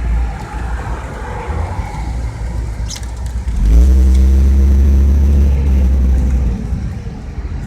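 A motor vehicle's engine revving up about halfway through, holding for a few seconds, then easing off, over a steady low rumble.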